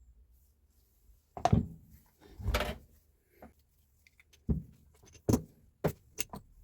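Hard parts knocking and clattering as they are handled during a tool repair: a sharp knock, a longer rattling clatter, then a run of five or so sharp knocks closer together in the second half.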